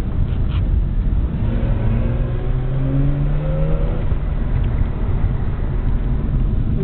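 Mazda RX-8's rotary engine under hard driving, heard from inside the cabin over steady road and wind rumble. The engine note climbs as the car accelerates about two to three seconds in.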